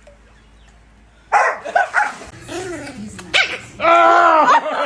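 A dog vocalizing loudly in protest: a string of short barks and yelps that bend in pitch, then a long wavering whine near the end.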